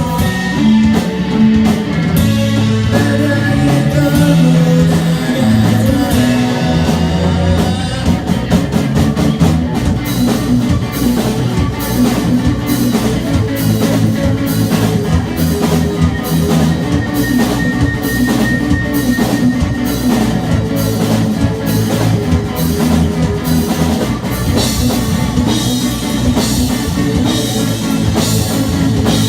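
Rock band playing live with guitars, bass and drums in a passage without vocals. The drums come in about a quarter of the way through with a steady beat on the cymbals, and the cymbals grow louder near the end.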